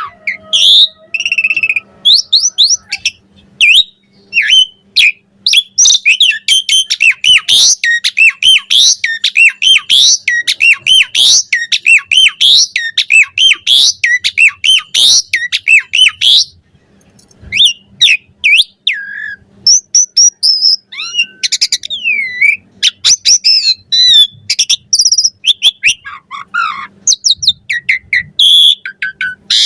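Javan pied starling (jalak suren) singing a fast, varied song of rising and falling whistles, chirps and short notes, with a brief pause a little past halfway.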